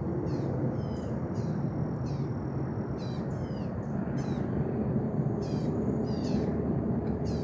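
Birds calling with short, high notes that slide downward, repeated every half-second or so, over a steady low background rumble.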